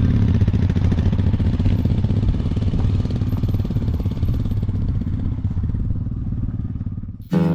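Royal Enfield Himalayan motorcycle's single-cylinder engine running steadily as the bike rides off, easing a little near the end. Acoustic guitar music cuts in just before the end.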